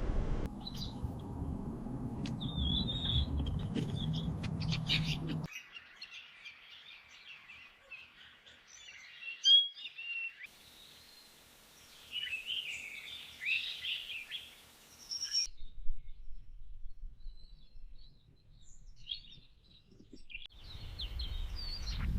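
Small birds chirping and calling in short, high notes, over several spliced-together clips, with a low wind-like rumble under the first few seconds that cuts off abruptly.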